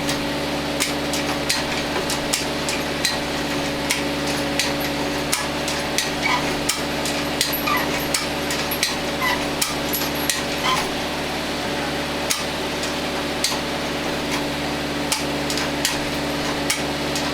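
An engine idling with a steady hum, which is plausibly the tractor being used for the lift. Irregular sharp taps, two or three a second, run over it throughout.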